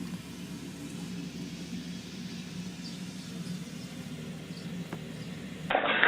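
A steady low hum with a faint hiss. Near the end it cuts off abruptly into a louder, muffled clip.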